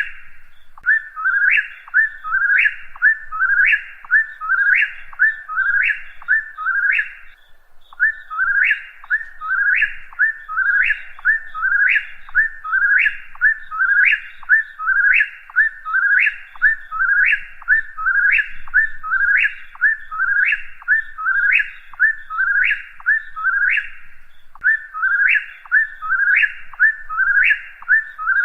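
A whip-poor-will singing its name, "whip-poor-will", over and over at about one phrase a second. Each phrase ends in a sharp rising note. The run of calls breaks off briefly twice, about seven seconds in and near the end.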